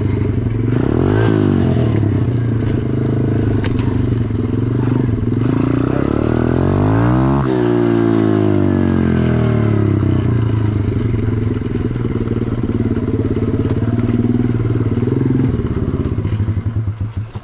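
A 125cc single-cylinder pit bike engine runs steadily with the revs rising and falling twice. It slows and cuts out near the end, a stall the rider blames on the clutch.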